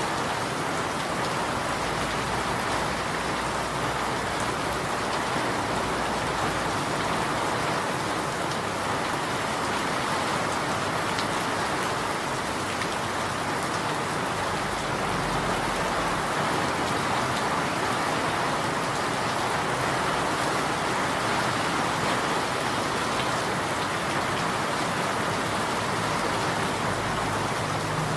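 Steady rain falling in an even, unbroken hiss, with no distinct drops or thunder standing out.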